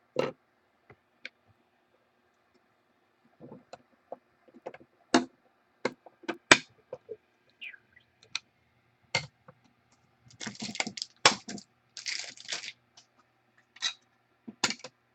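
Trading cards and their plastic holders being handled: scattered sharp clicks and taps, with a stretch of rustling and sliding about ten to twelve seconds in.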